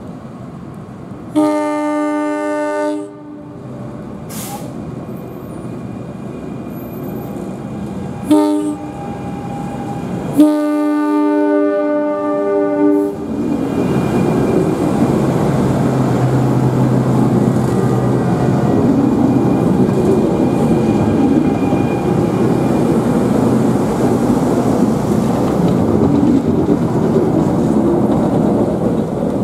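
A train sounds its horn three times: a long blast, a short one, then another long blast. The train then runs past with a steady rumble of wheels on rail.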